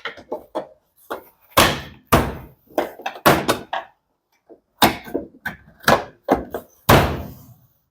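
Cover panel of a top-loading washing machine being fitted back on: a run of irregular knocks and thuds as it is handled and pressed into place.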